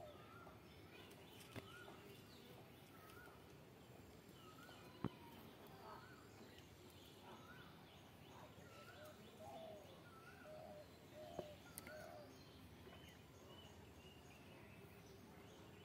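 Faint bird calls: short chirping notes repeated one or two times a second, with a few sharp clicks, the loudest about five seconds in.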